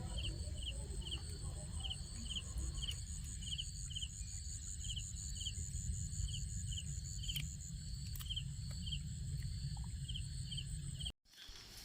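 Night insects, crickets, chirping: short chirps about twice a second over a steady high-pitched trill, with a low rumble underneath. It all cuts off suddenly shortly before the end.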